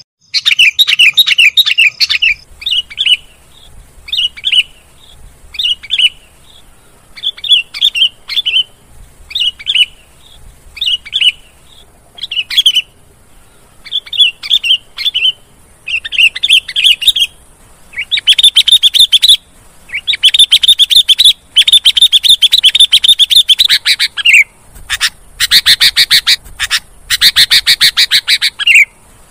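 Sooty-headed bulbul (kutilang) singing: short bright chirpy phrases about once a second, turning into longer runs of rapid chattering from about two-thirds of the way in.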